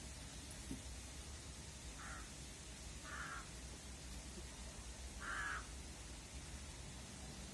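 A crow-like bird cawing three times, about two, three and five seconds in, the last the longest and loudest, over a faint low rumble.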